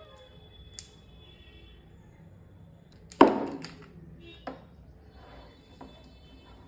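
Sharp clicks and knocks of hard objects being handled, the loudest a knock about three seconds in, with a smaller one a second later.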